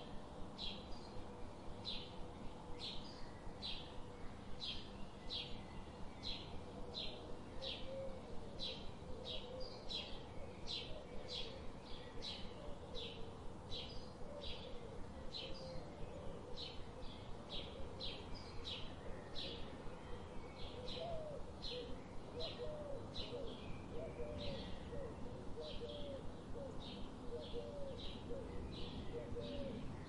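Birdsong: one bird repeats a short high chip about twice a second, and lower wavering calls join in from about eight seconds in until near the end.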